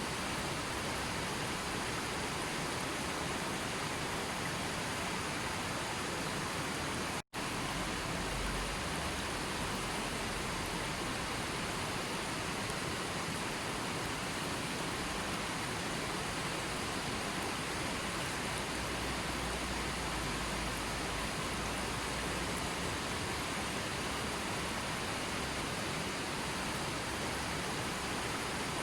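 Steady, even rushing noise of flowing water, cutting out for an instant about seven seconds in.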